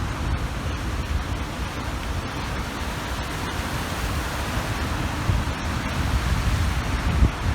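Waves washing steadily onto the shore of a large reservoir, with wind rumbling on the microphone.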